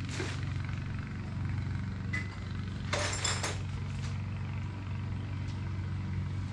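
Loose metal parts clinking and clattering as someone rummages through them, with the busiest clatter about three seconds in. Under it runs a steady low hum.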